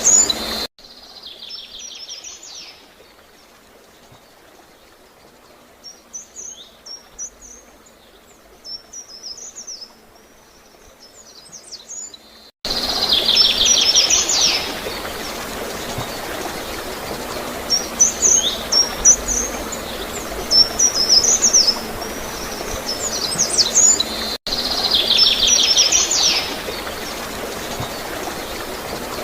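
A songbird singing a repeated song, a buzzy trill followed by quick high chirping notes, over the steady sound of gurgling running water. The water sound cuts out suddenly near the start, leaving the birdsong fainter for about twelve seconds, then cuts back in just as suddenly.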